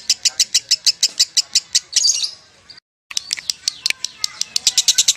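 Lovebird's ngekek song: a long, fast run of sharp, high chirps at about ten a second. It breaks off a little over two seconds in, cuts out to dead silence briefly, and picks up again about three seconds in.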